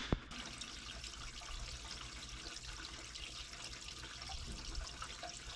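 Diesel fuel pouring from a fuel can into a tractor's fuel tank: a steady liquid rush with a low hum underneath.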